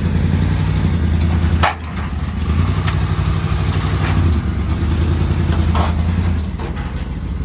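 A vehicle engine running at a steady low idle, with a few sharp clanks over it.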